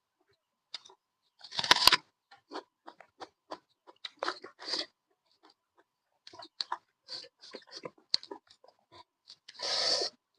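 A person chewing pork meat close to the microphone: irregular crunches and wet mouth smacks, with a sharp loud crunch a couple of seconds in and a longer, louder burst of noise near the end.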